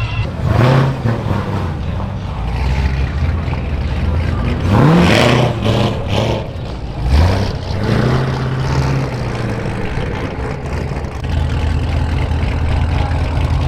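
A car engine running with a loud low exhaust rumble, revved up sharply twice, about five and seven seconds in.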